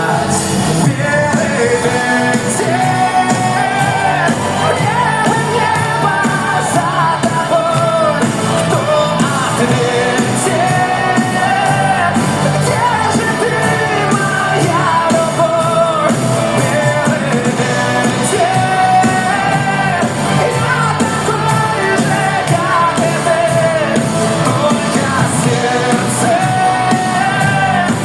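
Live pop-rock ballad: a male vocalist singing over a full backing with drums, in a large hall.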